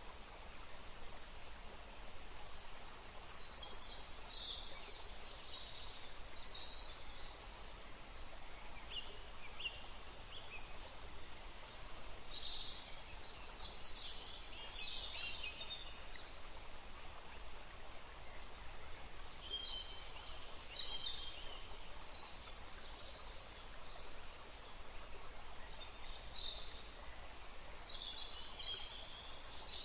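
Songbirds singing short, high chirping phrases in bursts every several seconds, over a steady rush of wind through trees and running water.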